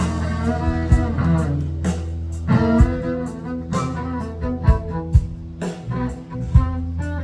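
Live band playing an instrumental passage of a country-rock song: sustained fiddle lines over guitar, bass and a steady kick drum, with no singing.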